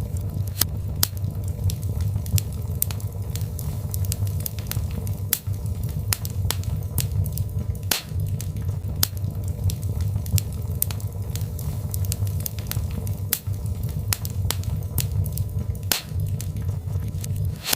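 Birchwood fire crackling in a fireplace: frequent, irregular sharp pops and snaps over a steady low rumble of the burning logs.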